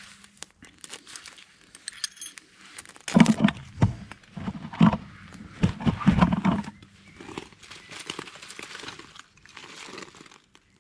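Crinkling and crunching of dry material being handled, with a louder run of irregular knocks and crunches between about three and seven seconds in.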